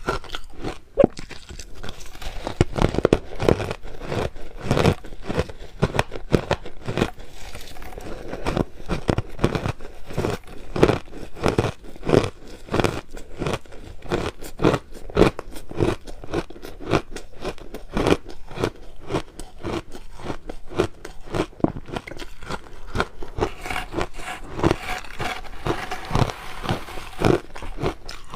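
Close-up crunching and chewing of crushed ice, with rapid, sharp crunches several times a second.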